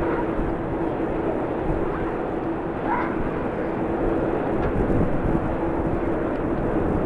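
Jet airliner engines running with a steady hum, heard through heavy wind rumble on the microphone.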